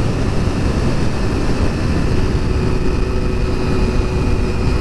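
Honda road motorcycle being ridden at a steady speed, its engine running evenly under a constant rush of wind noise.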